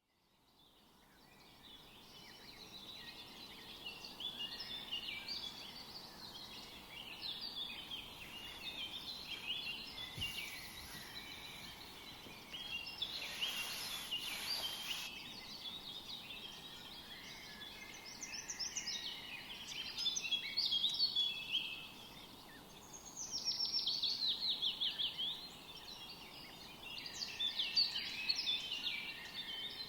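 Songbirds singing in a busy chorus of overlapping chirps and trills, fading in over the first couple of seconds, with a fast run of repeated notes about three-quarters of the way through.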